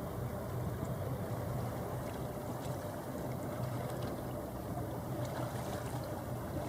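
A large ship's engines rumbling steadily as it gets under way, a low, even hum with a faint steady tone above it.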